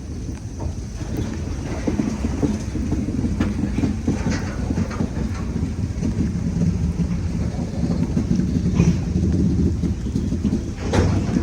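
Freight train cars rolling past on the rails: a steady low rumble with scattered clicks and clanks from the wheels on the track.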